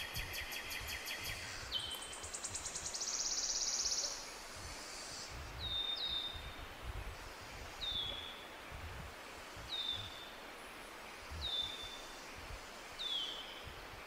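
Songbirds singing: a fast, buzzy trill that ends about four seconds in, then short falling chirps repeated about every two seconds. A low wind rumble runs underneath.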